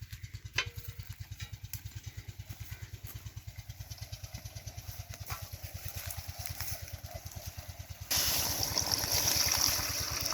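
Petter diesel engine running with a steady, even low thump. About eight seconds in, a loud rushing hiss comes in suddenly over the engine.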